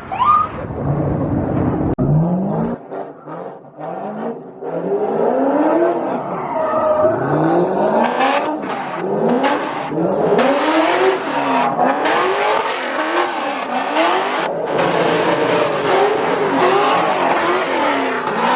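A car engine revving up and dropping back again and again, about once a second, with the tyres squealing and screeching loudly from about eight seconds in: a car spinning its tyres in a stunt.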